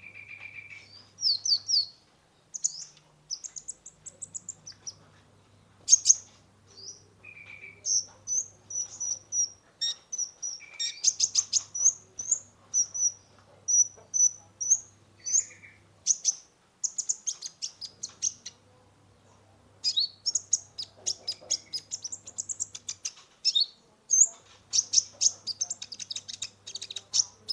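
Kolibri ninja (a sunbird) singing a lively, varied song of high-pitched chirps and fast trills in quick runs with short pauses.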